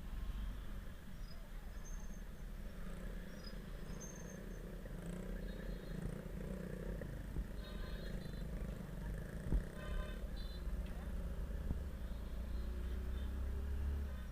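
Motorcycle engine running under way, with a steady low wind rumble on the microphone. A few short high chirps sound faintly above it.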